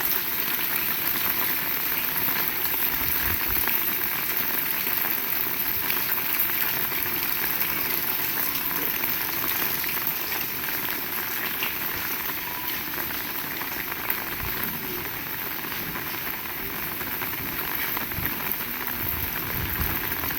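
Heavy rain falling steadily, a dense even hiss, with a few dull low thuds here and there.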